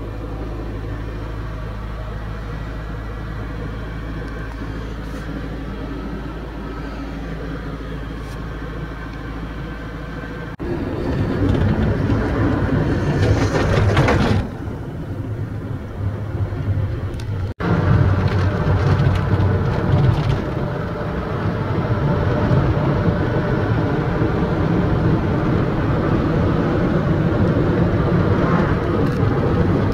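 Boat engine running at a steady hum, joined by a loud rush of wind and water noise. The sound jumps twice at hard edits, about ten and seventeen seconds in, and is louder and noisier after each.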